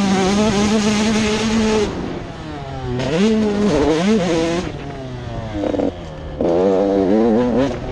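Motocross bike engine revving hard, its pitch falling off and climbing again several times as the rider backs off and gets back on the throttle. It is loudest at the start, in the middle and near the end.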